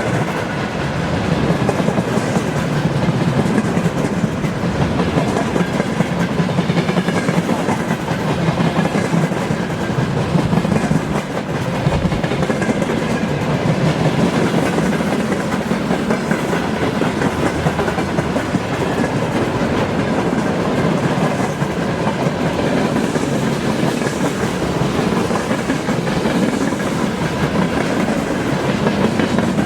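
Freight train rolling past, its wagon wheels clattering steadily over the rails.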